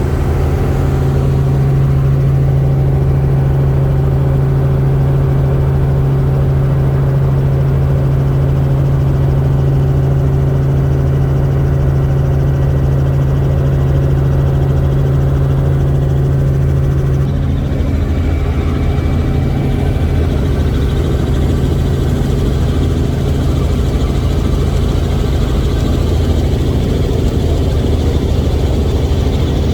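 Helicopter heard from inside the cabin in flight: a steady, loud drone of turbine and rotor with a strong low hum. About halfway through the hum drops back and a higher rushing noise takes over.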